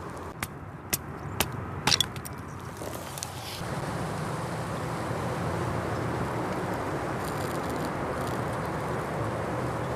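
A few sharp clinks of glassware in the first two seconds. From about four seconds in, a steady rushing noise sets in and stays.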